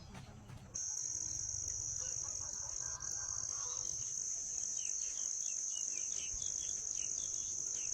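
A loud, steady, high-pitched insect drone that starts suddenly just under a second in and holds unbroken. Faint short chirps sound beneath it.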